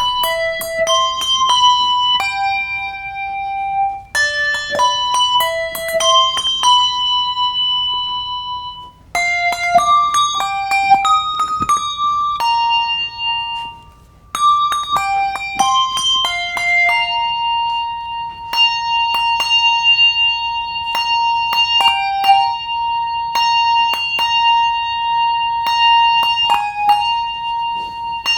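Bronze handbells playing a melody, each note struck by its clapper and left to ring on, in short phrases with brief gaps between them. In the last third one note keeps ringing underneath while other bells are struck over it.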